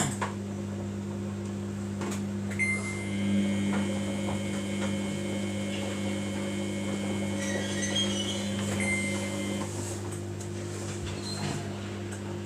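Samsung washing machine running in service mode: a steady electrical hum, with a faint high whine that comes and goes.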